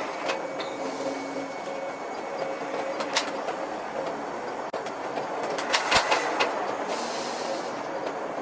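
Human centrifuge running with a steady mechanical rumble and hiss, with a few sharp clicks about three and six seconds in.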